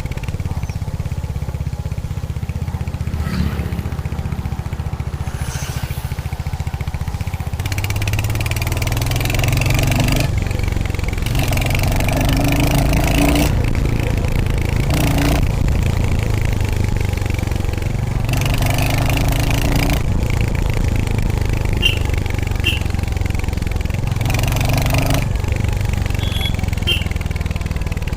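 Royal Enfield Hunter 350's single-cylinder engine and exhaust running under way, a steady low pulse. It grows louder about eight seconds in, and the note rises and falls with throttle, with a climb around twelve seconds. Several brief rushes of noise pass over it.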